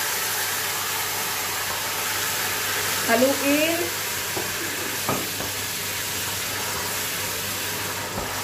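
Thin slices of soy-marinated beef frying in hot oil in a stainless steel pot: a loud, steady sizzle as the meat is stirred, with a couple of brief knocks about halfway through.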